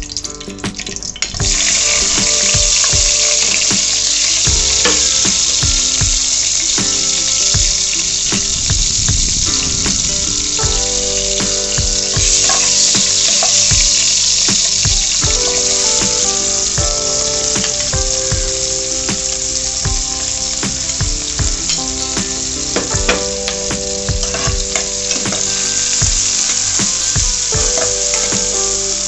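Green chillies and sliced onions frying in hot oil in a pan: a loud, steady sizzle that starts suddenly about a second in, with a metal spoon clicking and scraping against the pan as it stirs.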